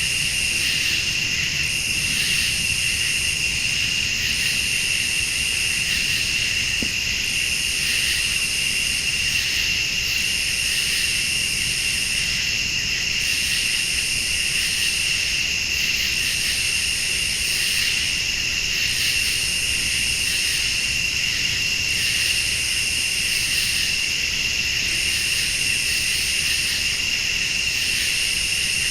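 Night chorus of crickets and late-summer insects: a steady high trill, with a higher insect call pulsing on for about two seconds and off again every three seconds or so, over a low steady rumble.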